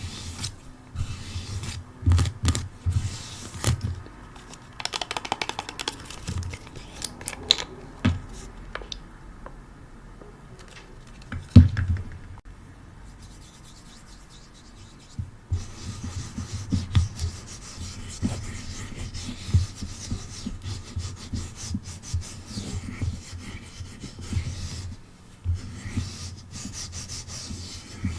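Close-up ASMR handling sounds: rubbing and scratching on objects right at the microphone, with many short taps and clicks and dull low bumps. There is one sharper, louder knock about halfway through.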